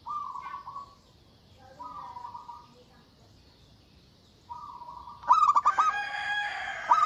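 Zebra dove (perkutut) cooing in short, rapidly pulsing phrases, three softer ones and then a much louder, fuller run of notes from about five seconds in.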